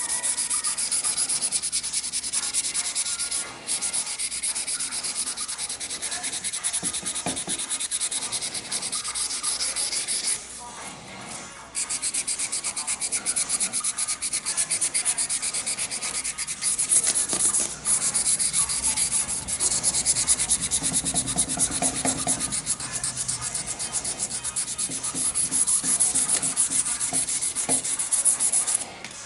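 A knife being sanded: a steady, rasping hiss that breaks off briefly about three and a half seconds in and again for about a second around the eleven-second mark.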